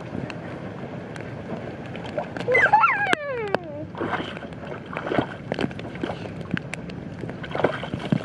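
Rain and water splashing and sloshing, with many small sharp drips and taps. About three seconds in, a child lets out a high squeal that slides down in pitch.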